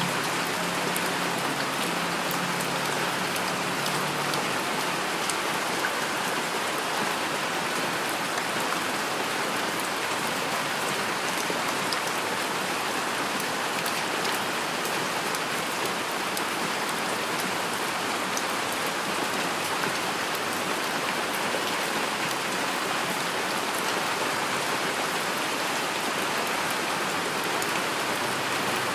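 Steady rain falling, an even dense hiss with fine drop ticks on a surface.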